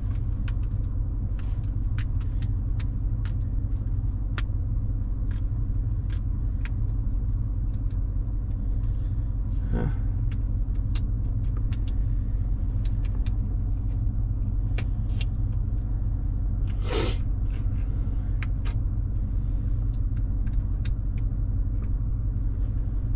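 Chevrolet Silverado's V8 running steadily, a low even rumble heard inside the cab. Scattered light clicks and taps sound over it, with two brief louder sounds about ten and seventeen seconds in.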